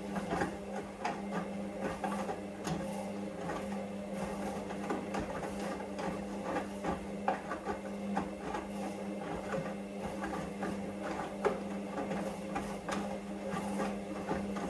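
Hoover Vision washing machine running a wash: a steady motor hum with frequent light clicks and knocks as the drum turns the load.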